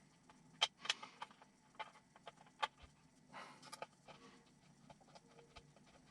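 Light clicks and taps of small hard plastic and metal parts being handled and fitted by hand during RC kit assembly, the sharpest about a second in, with a short rustle a little past the middle.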